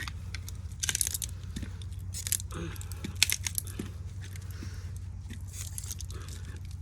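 Copper winding wire being pulled and pried out of a ceiling fan motor's stator, the glued-in wire crackling and scraping in irregular clicks, over a steady low hum.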